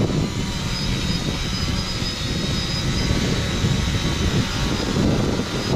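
UpAirOne 2K quadcopter's motors and propellers whining steadily, with a thin high-pitched squeal held over it, which the pilot takes for a damaged motor. A heavy low rumble runs underneath.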